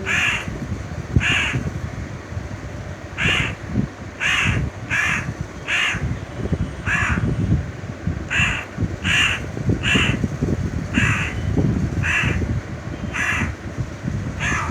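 Young crow cawing over and over, short caws about one a second.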